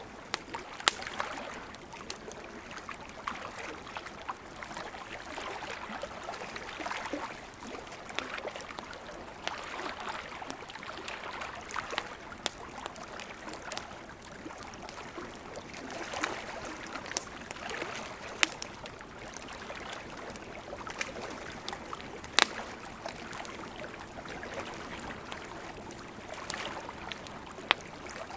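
Wood campfire crackling, with scattered sharp pops, over ocean surf washing in and out in slow swells every few seconds.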